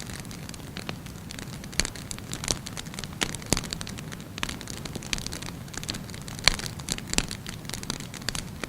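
Burning wood fire crackling, with irregular sharp pops over a steady low hiss.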